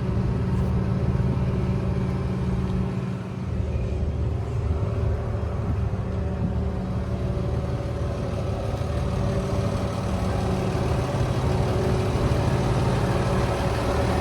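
Jet fuel truck's engine running steadily at idle, a low even hum.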